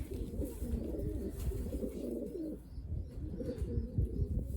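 Racing pigeons cooing, several birds overlapping in a low, continuous cooing.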